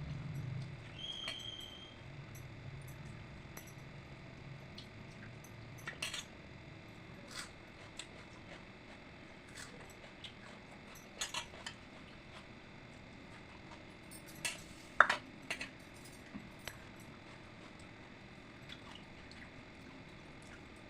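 Scattered soft clicks and clinks of dishes being handled during a meal, with one sharper clink that rings briefly about fifteen seconds in.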